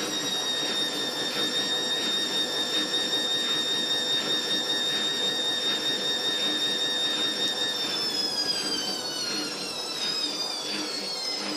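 Fagor front-loading washing machine's motor whining at a steady high pitch during a spin, with a faint pulse about twice a second from the turning drum; about eight seconds in the whine starts falling in pitch as the drum slows down.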